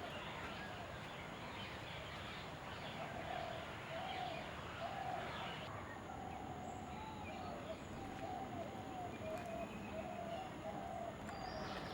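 Birds chirping and calling, with a run of short, repeated low calls throughout.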